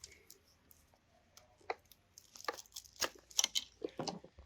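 Scattered clicks, knocks and rattles of an engine wiring harness being disconnected and handled, thickening into a busy run of clicks about two seconds in.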